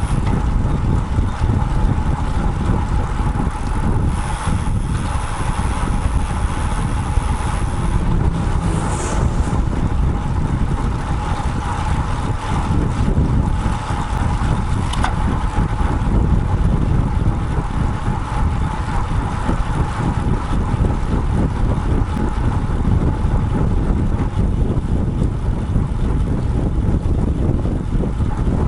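Wind rushing over an action camera's microphone mounted on a moving road bike, with road traffic noise and a steady mid-pitched hum; a brief high-pitched squeal about nine seconds in.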